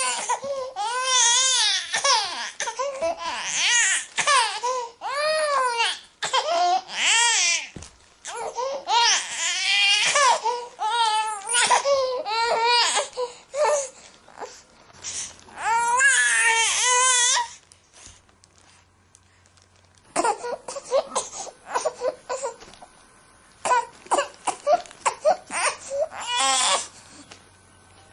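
Baby crying in long, loud wails with a wavering pitch. After a pause of a couple of seconds it goes on with quieter, shorter, choppier fussing cries.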